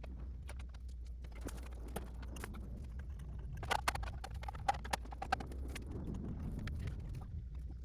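Scattered light clicks and knocks of hands and tools at work on a motorcycle, with a cluster of sharper clicks around the middle, over a low steady hum.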